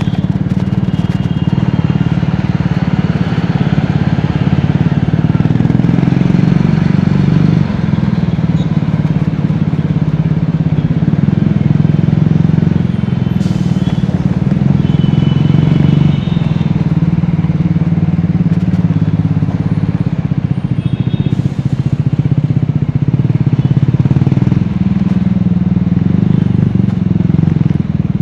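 Triumph Scrambler 400X's single-cylinder engine and exhaust running steadily on the move, its pitch rising and dipping slightly with the throttle. A few short high-pitched beeps come and go over it.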